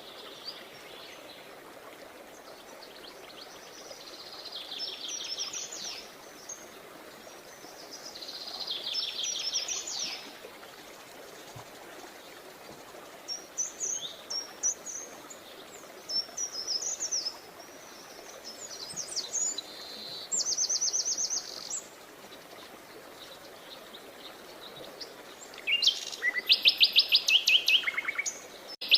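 Songbirds singing outdoors: separate short song phrases of rapid, repeated high notes come every few seconds. The loudest phrases are near the end, over a steady faint background hiss.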